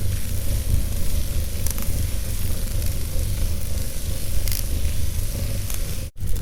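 Wood fire burning in a fireplace: a steady hiss over a low rumble, with a few faint crackles. The sound cuts out for a moment near the end and then resumes.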